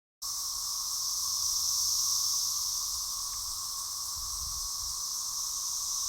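Dense chorus of periodical cicadas, a steady high hiss with a lower droning whine beneath it, cutting in abruptly just after the start and holding unbroken.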